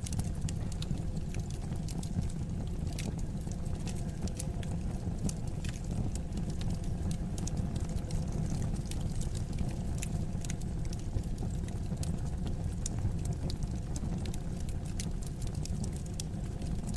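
Wood fire crackling: frequent small sharp pops and snaps scattered over a steady low rumble of burning flames.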